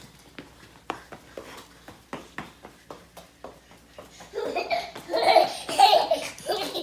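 Laughter in loud, broken bursts starting a little past the middle, after a run of faint clicks and taps.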